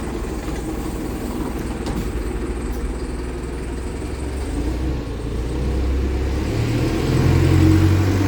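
A vehicle engine running steadily, then rising in pitch and level over the last few seconds as it accelerates.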